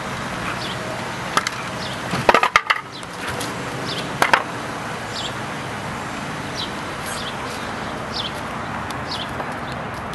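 A 2001 Lincoln Town Car's V8 idles steadily after its oil change while a few sharp wooden knocks and clatters come about two seconds in and again at about four seconds, as the wheel blocks are pulled out. Short high chirps, likely a bird, repeat through the rest.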